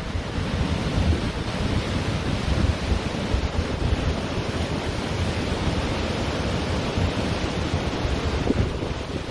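Ocean surf washing steadily onto a beach, with wind buffeting the microphone in a low, fluttering rumble.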